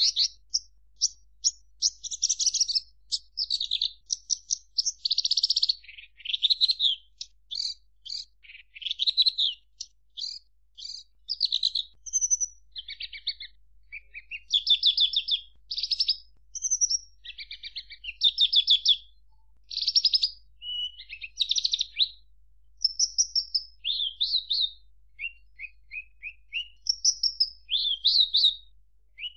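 Horsfield's bush lark (branjangan) singing: a long, varied run of high phrases made of rapid trills, buzzy notes and short whistles, with brief pauses between phrases.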